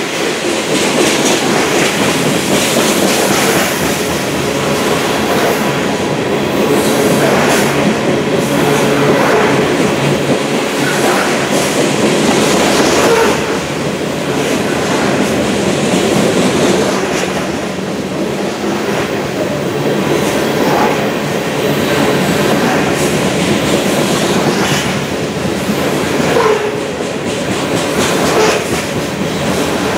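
Loaded covered hopper cars of a Union Pacific grain train rolling past at steady speed, with a continuous clatter of steel wheels on the rails.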